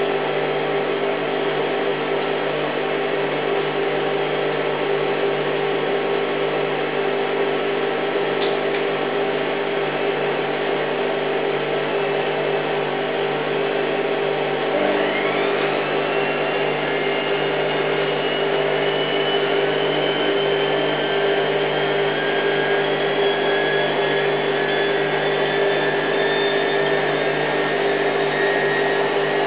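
Hoover Time Manager H130E washing machine on its final spin: a steady motor and drum hum, with a whine that begins about halfway through and rises in pitch as the drum speeds up.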